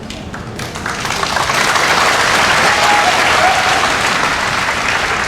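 Sumo arena crowd applauding, swelling about a second in and easing off near the end.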